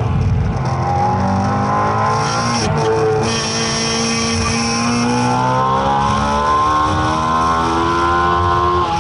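2.4-litre V8 of a Subaru BRZ race car, heard from inside the cabin. The revs drop briefly about two and a half seconds in, then climb steadily in one long pull as the car accelerates out of a corner.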